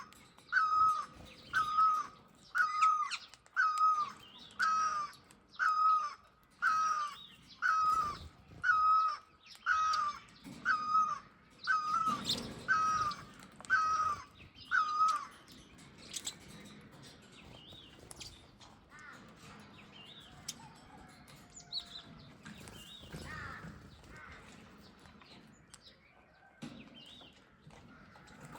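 A bird repeating one harsh call about once a second, some fifteen times, each note the same hooked shape; the calls stop about fifteen seconds in, leaving fainter scattered chirping.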